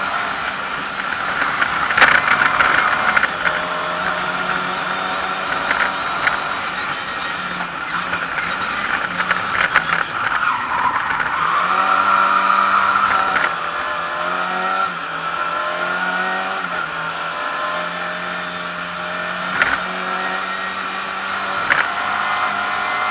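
Lada 2101's four-cylinder engine heard from inside the cabin, driven hard: it revs up and drops back again and again through gear changes. A few sharp knocks come through the body of the car.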